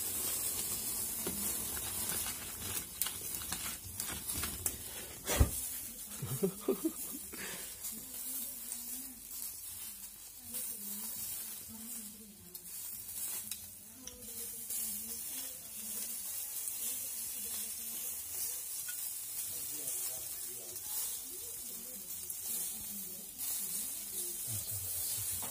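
Food frying in hot oil, a steady sizzle, with a single sharp knock about five seconds in.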